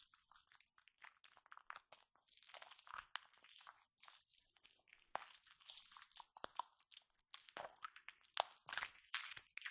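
Shaving foam squished and worked by hand directly on a microphone: quiet, irregular sticky crackling with small clicks and pops, busier and a little louder near the end.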